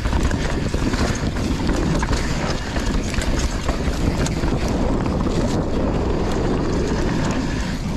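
Wind rushing over a GoPro's microphone as a mountain bike descends a loose dirt trail at speed, with the tyres rolling over dirt and the bike rattling in many small clicks.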